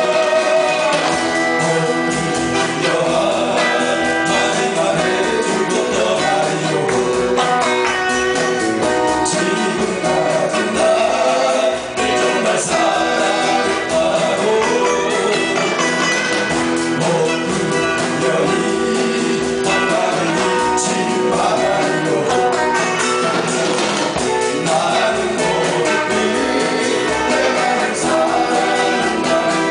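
Live band playing a Korean 1970s–80s-style pop song: a singer over guitar accompaniment with a steady beat.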